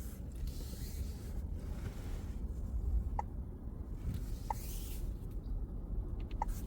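Steady low rumble of a car heard from inside the cabin, with a few faint, irregular ticks.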